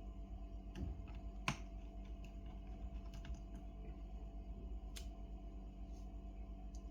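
Sparse, light clicks and taps on a laptop, about ten at uneven intervals with the sharpest about a second and a half in, over a steady low hum.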